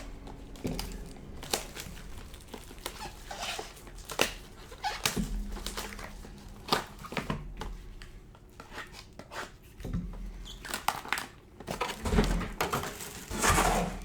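Plastic shrink wrap and the cardboard of a trading-card hobby box being torn open by gloved hands: repeated crinkles, tears and small knocks, with a longer, louder rustle near the end.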